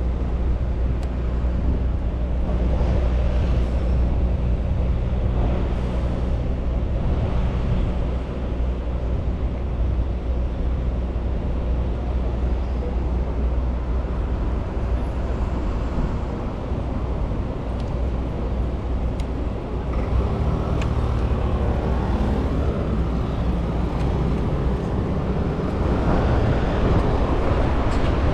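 London road traffic heard from a bicycle, with a nearby vehicle engine's low steady hum for the first several seconds, then general road noise that grows louder again in the last several seconds.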